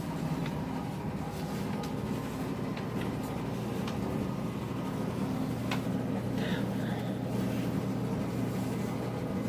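Steady low mechanical hum, with a couple of faint short higher chirps a little past the middle.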